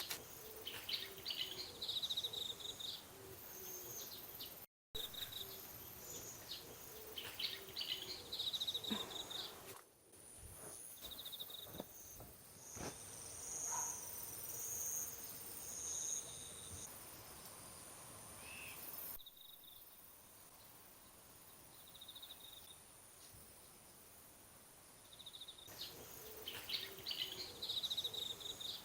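Garden ambience of birds chirping and insects calling, with repeated short high trills and a thin steady high insect tone. The sound changes abruptly several times at edits.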